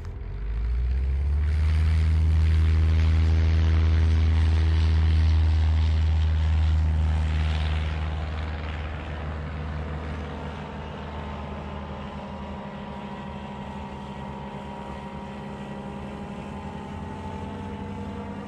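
A small propeller engine running steadily at one speed. It is loud at first, then settles to a quieter level about eight seconds in.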